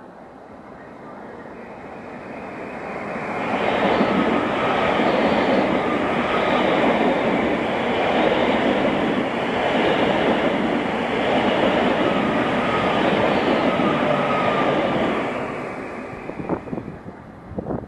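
Electric passenger train running through the station at speed: the rumble of wheels on rail swells over the first few seconds, stays loud for about ten seconds as the train goes by, then fades, with a few sharp clacks near the end.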